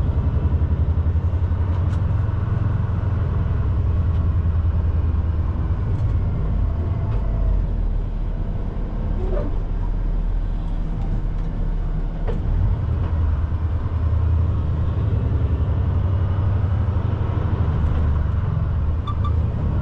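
Semi truck's diesel engine running under way, a steady low drone that shifts lower and eases slightly about eight to twelve seconds in.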